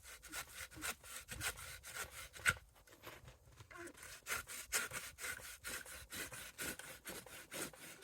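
Handsaw cutting into a fallen tree log with quick, even back-and-forth strokes, several a second.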